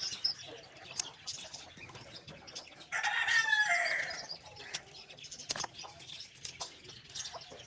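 A rooster crows once, about three seconds in, over scattered light clicks and rustles.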